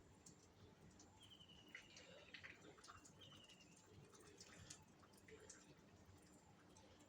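Near silence: faint ambience with scattered soft ticks and two brief high rapid trills, about a second in and again about three seconds in.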